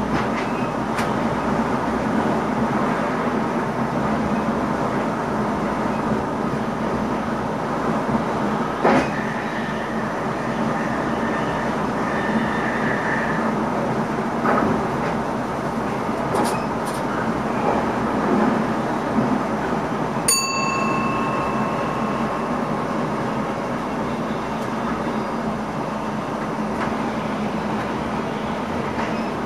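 NS ICM electric train running, heard from inside the driver's cab: steady rolling noise with a few sharp knocks from the track, and a brief high tone about twenty seconds in.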